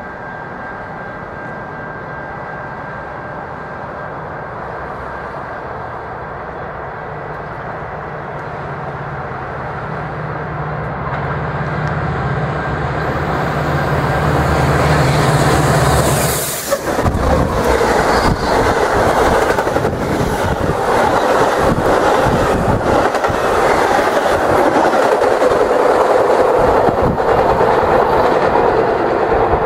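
Metra F40PH diesel locomotive approaching, its engine hum growing steadily louder until it passes about 17 seconds in. Then the string of bilevel coaches rushes by with a clickety-clack of wheels over rail joints.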